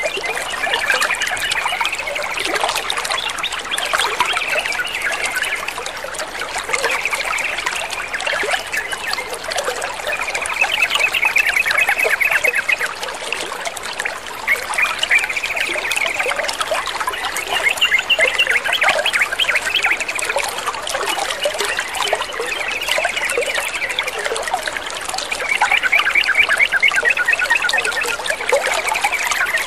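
Water trickling and splashing steadily, with birds chattering in short, dense bursts every few seconds.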